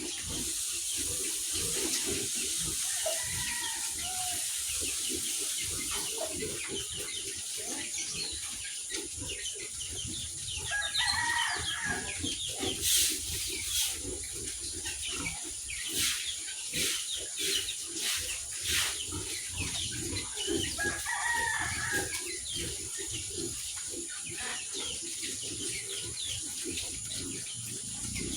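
Roosters crowing three times, spread through the stretch, amid hens clucking and a steady scatter of short clicks and rustles.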